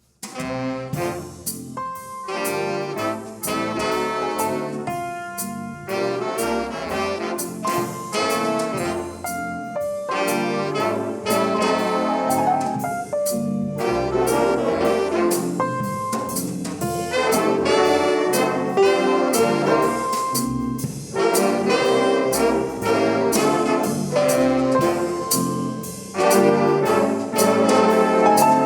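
A high school swing band playing jazz, led by its brass section. The band comes in right after a brief break and plays on with full, punchy brass chords.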